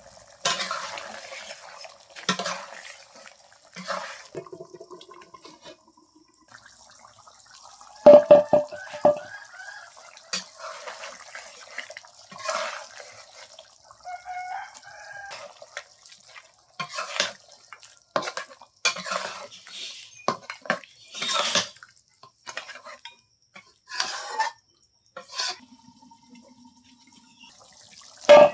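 Water splashing and pouring in short, irregular bursts, with clinks and knocks of pots or dishes, as in washing up by hand.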